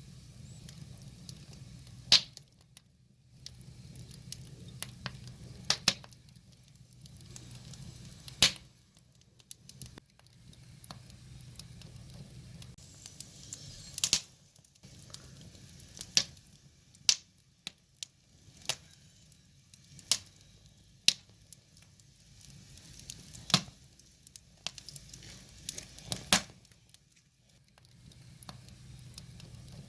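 Wood fire burning with a soft hiss and sharp, irregular crackles and pops from the burning logs, a dozen or so, several of them loud.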